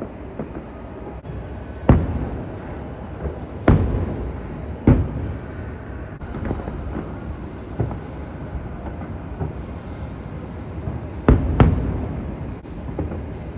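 Fireworks bursting: sharp booms, each trailing off in a rolling rumble, the loudest about 2, 4, 5 and 11 seconds in, over a steady low rumble.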